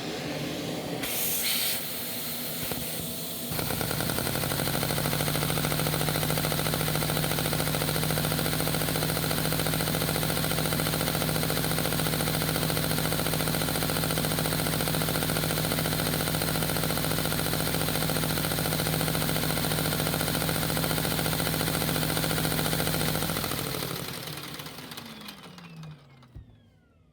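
Vacuum cleaner suction driving a Lego V-twin vacuum engine, its plastic pistons clattering as it spins. The sound steps up a few seconds in, runs steadily with a constant hum, then winds down near the end with falling pitch.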